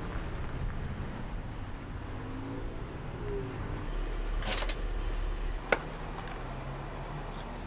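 A vehicle's engine and road noise running steadily, the engine pitch shifting a little partway through. A short rattle of clicks a little past halfway, then one sharp click, the loudest sound, about a second later.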